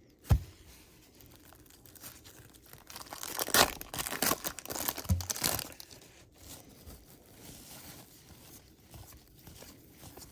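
A trading card pack wrapper being torn open and crinkled, loudest for a couple of seconds in the middle, after a soft knock at the start and with lighter rustling afterwards.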